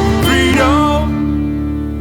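Band music ending its song: a last run of notes with sliding pitches over guitar, then a final chord held and slowly fading.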